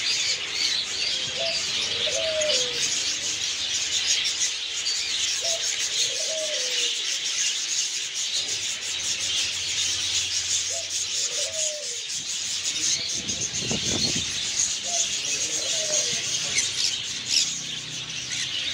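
Many caged birds chirping together in a dense, constant chatter, with a low cooing call like a dove's repeating about every four to five seconds.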